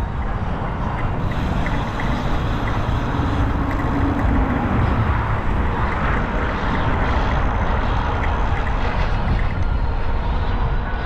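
Wind rushing over the microphone during a bicycle ride: a steady, loud rumble with no breaks.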